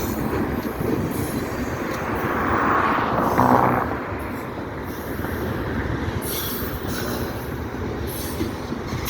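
Norfolk Southern freight train rolling past over a railroad bridge: a steady rumble and rattle of wheels and cars, loudest about three and a half seconds in.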